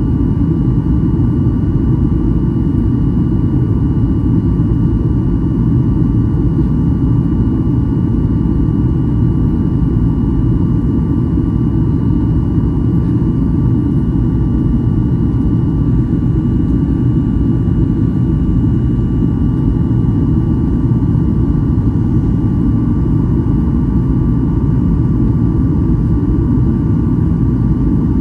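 Cabin noise inside a Boeing 737-800 in flight: a steady low rumble of engines and airflow with two faint, steady high whine tones above it, unchanging throughout.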